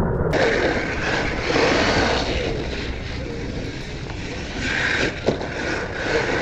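Kyosho Blizzard RC snow cat's brushless motor drive whining under throttle on a 3S LiPo, swelling and easing several times as the driver works the throttle, with a sharp knock about five seconds in.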